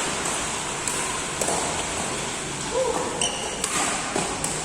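Badminton rally in a sports hall: a few sharp racket hits on the shuttlecock and a brief shoe squeak on the court floor about three seconds in, over steady hall noise.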